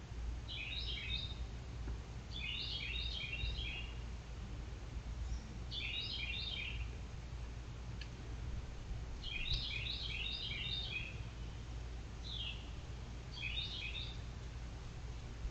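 A small songbird chirping in short clusters of rapid high notes, repeated about every one to two seconds, over a steady low rumble.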